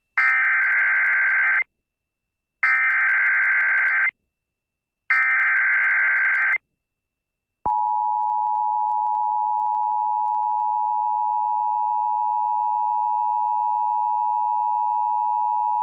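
Emergency Alert System broadcast tones: three bursts of about a second and a half of buzzy digital data (the SAME header), then about eight seconds in the steady two-tone attention signal begins and holds. Together they signal the start of an emergency alert, here a National Weather Service severe thunderstorm warning.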